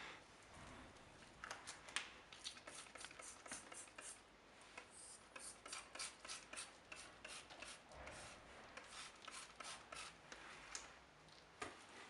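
Quiet, irregular series of light clicks and short scrapes, a few a second, from small hand work with tools and parts.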